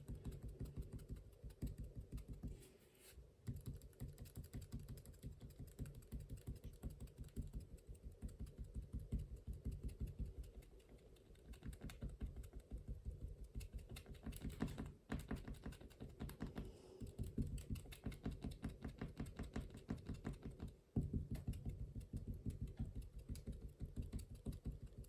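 Rapid light tapping of a brush or pen stippling dots onto watercolour paper, in quick runs broken by a few brief pauses.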